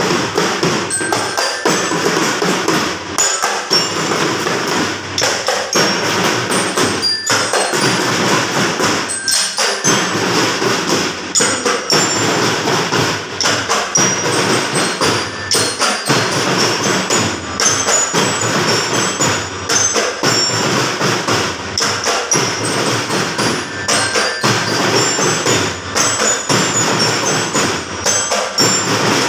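Percussion music: repeated drum strokes with a bright glockenspiel-like bell melody of short high notes over them.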